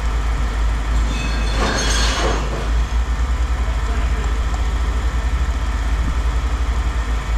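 Vehicle engine idling with a low, rapidly pulsing throb. A brief burst of noise cuts across it about a second and a half in.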